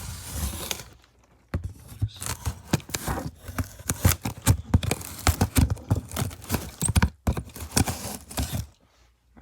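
Cardboard shipping box being opened by hand: a short rip at the start, then a long run of scrapes, knocks and rustles of cardboard and packing material that stops about a second before the end.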